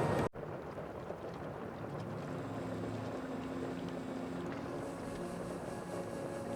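Sea ambience: a steady wash of water and wind noise under a low, steady drone, starting after an abrupt cut about a third of a second in.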